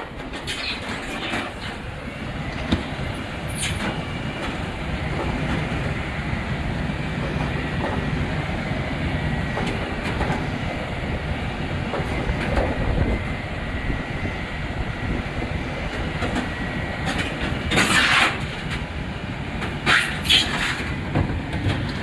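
Heavy rubbish truck's diesel engine running with a steady low rumble and clatter, with a few short, sharp hissing bursts near the end.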